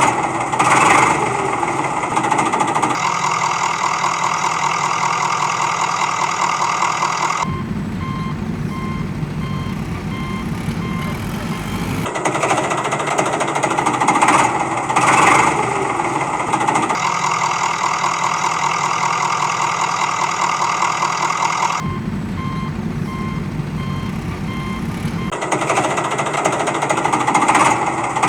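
Construction-vehicle sound: a heavy machine engine running with a fast rattling. Twice it drops to a low rumble with a reversing alarm beeping about twice a second, and the whole sequence repeats like a loop.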